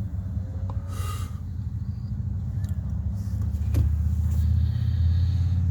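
Steady low vehicle rumble that grows a little louder after about three and a half seconds, with a brief hiss about a second in and a single click near four seconds.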